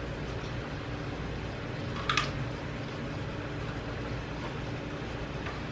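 Parts of an electric pressure cooker being handled: a light click about two seconds in and a fainter one near the end, over a steady low hum.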